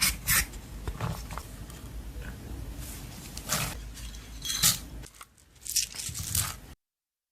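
Slime being worked by hand, with irregular bursts of crackling and squelching noise. The sound cuts off abruptly near the end.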